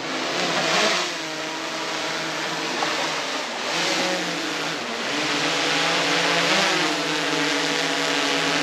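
A motor running steadily, its pitch wavering up and down over a strong hiss.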